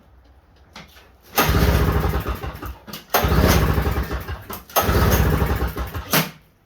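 Small snowblower engine cranked three times, each attempt about a second and a half long, trying to fire but not catching. It is a cold start after the machine has sat unused for a year.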